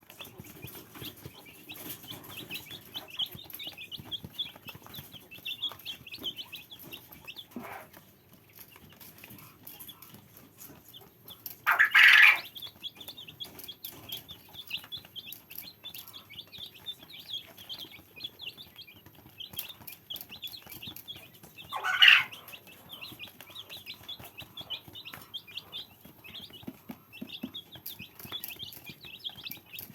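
A group of chicks cheeping continuously in high, rapid peeps. Two loud, short calls stand out, about a third of the way in and again about two-thirds in.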